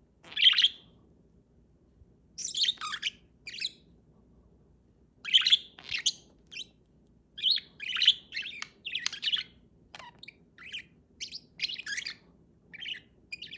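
A pet blue parakeet chirping in short clusters of quick high chirps, with pauses between them. The chirps come more often in the second half.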